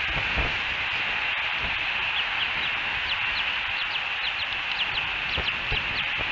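Bald eagle chittering: a run of short, high whistled notes, each sliding downward, several a second, starting about two seconds in, over a steady hiss.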